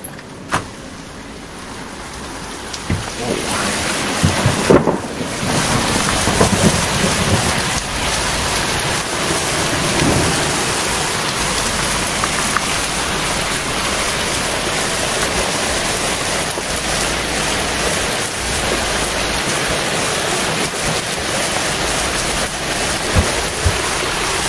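Heavy rain pouring down in a thunderstorm. It swells over the first few seconds, with a low rumble of thunder rolling through from about three to ten seconds in.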